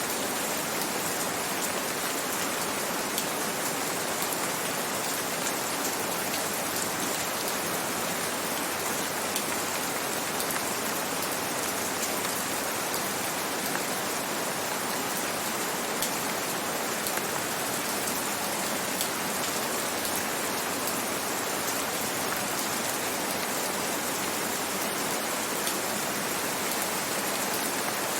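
Steady gentle rain falling, an even hiss with scattered ticks of single drops.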